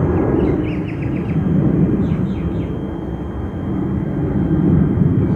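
Boeing 737-800 jet airliner climbing out after takeoff, its turbofan engines making a loud, steady roar that swells and eases slightly. Small birds chirp in two short runs over it.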